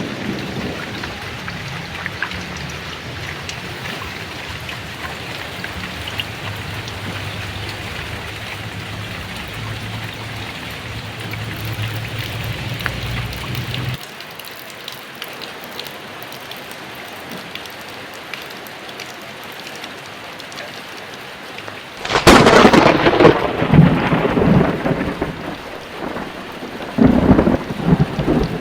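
Heavy rain falling steadily with thunder. A low rumble under the rain stops abruptly about halfway through, and a loud, sharp thunderclap breaks out about three-quarters of the way in, with a second loud burst near the end.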